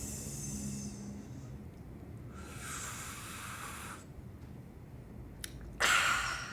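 A man imitating Coca-Cola sounds with his mouth: hissing for the fizz of the poured Coke, one hiss fading out over the first second and another from about two and a half to four seconds in. Near the end comes a short click, then a short, loud breathy gasp, the loudest sound.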